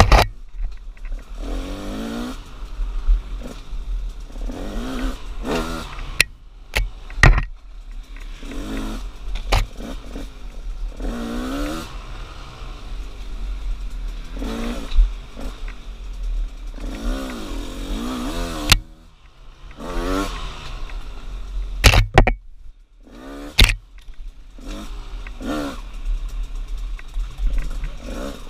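2016 KTM 200 XCW two-stroke dirt bike engine revving up and easing off again and again, every second or two, with sharp knocks and clatter in between. Twice, about two-thirds of the way through, the engine drops almost away for a moment.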